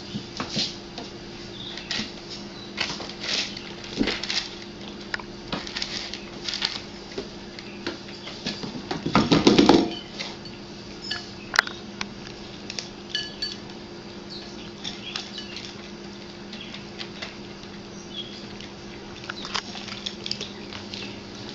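Cats moving about unsteadily on a hard surface: irregular light taps, scrapes and clatter of paws and bumps. A louder scuffle comes about nine seconds in and a single sharp knock soon after, all over a steady low hum.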